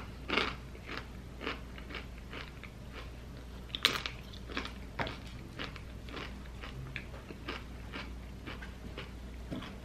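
A person chewing a crisp tortilla chip dipped in queso, with crunches about twice a second and the loudest about four seconds in.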